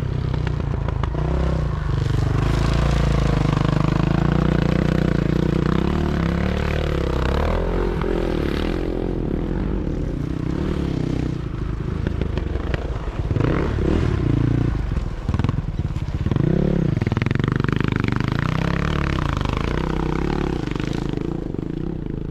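Sidecar motocross motorcycles racing: engines revving up and down through gear changes, with several bikes passing close by around the middle.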